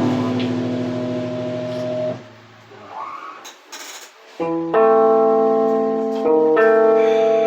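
Band rehearsal music: a held chord rings and stops about two seconds in, then after a short pause a keyboard plays sustained chords, changing chord a couple of times.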